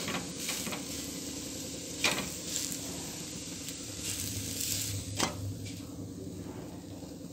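Faint, steady sizzle of a dosa cooking on a hot tawa, with a few light clicks: one at the start, one about two seconds in, and one about five seconds in.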